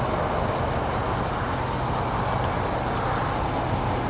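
Steady motor-vehicle noise: a low engine hum under a rushing hiss that swells and eases slowly.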